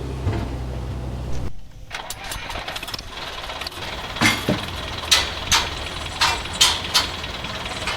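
A motor humming steadily, cutting off about a second and a half in, followed by a run of six sharp clicks or knocks.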